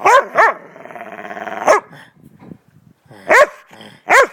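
A dog barking in short, sharp barks, about five, with a rising growl lasting about a second in between: rough play barking and growling.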